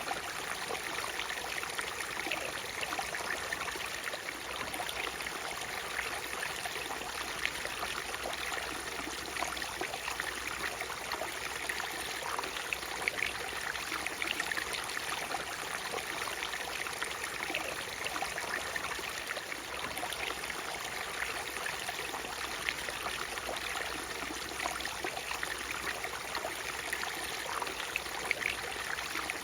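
Natural waterfall: a steady rush of falling water with many small splashes and trickles.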